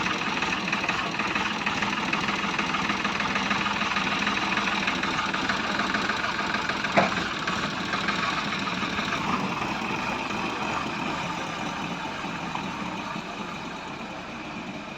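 Heavy vehicle's engine running steadily, with one sharp click about seven seconds in, then slowly fading.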